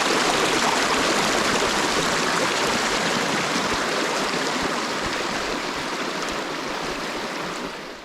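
Steady heavy rain falling, an even hiss that eases a little and then cuts off sharply just before the end.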